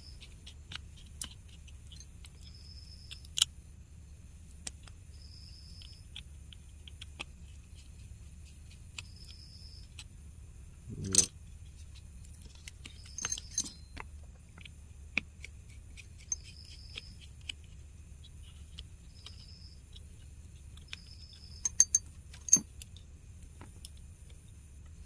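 Small scattered clicks and taps of tools on the plastic housing and internals of a DIZO GoPods D earbud as it is taken apart, over a steady low hum, with one louder knock about eleven seconds in.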